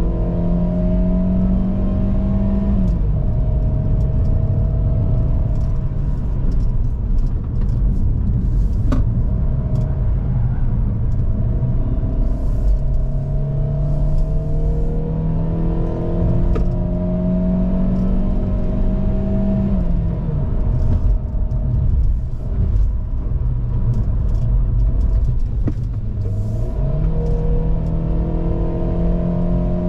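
GAC GS3's 1.5-litre naturally aspirated petrol engine pulling hard uphill through its Aisin 6-speed automatic. The revs climb slowly, drop as the gearbox shifts up about 3 seconds in and again about 20 seconds in, then jump up sharply near the end as it kicks down a gear.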